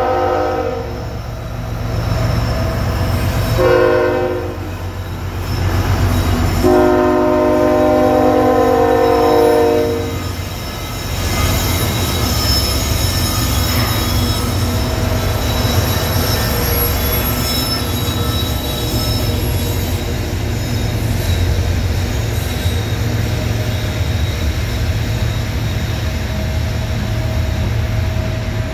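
CSX diesel locomotive's air horn sounding for a grade crossing: a blast ending about a second in, a short blast, then a long one ending about ten seconds in. The train then passes close by, with a steady rumble of the locomotive and the coal hopper cars' wheels on the rails and a faint high wheel squeal.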